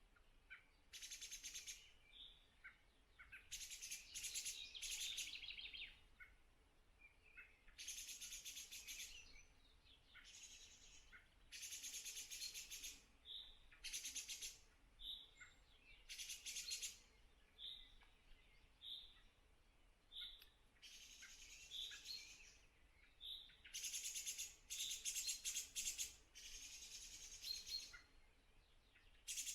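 Faint pasture wildlife chirping: repeated rasping, finely pulsed bursts about a second long every couple of seconds, with short high chirps between them.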